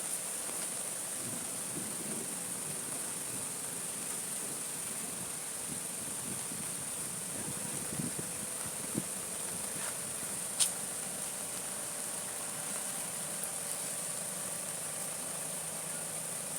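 Insects trilling steadily at a high pitch, with a couple of soft knocks and then one sharp click about ten seconds in.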